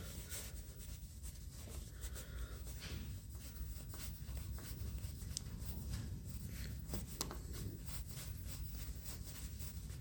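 Faint scraping and rubbing with a few light clicks as a small threaded oil-feed fitting is handled and screwed into the shaper's metal slide, over a steady low background hum.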